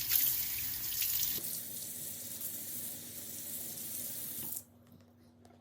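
Sink tap running with water splashing into the basin while the rusty axe head is rinsed under it; the water cuts off suddenly near the end as the tap is shut.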